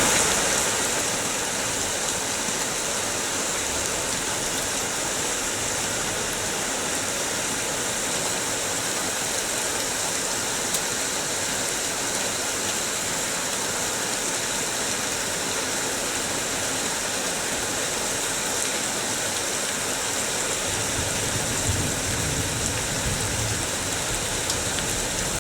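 Rain pouring down with water running and splashing, a steady even hiss. A low rumble joins in near the end.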